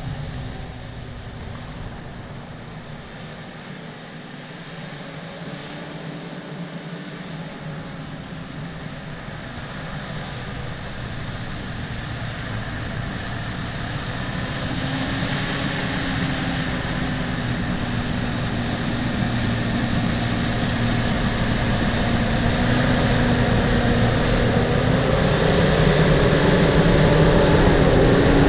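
Bulldozer running with a steady diesel hum, growing steadily louder through most of the stretch as it comes closer or works harder.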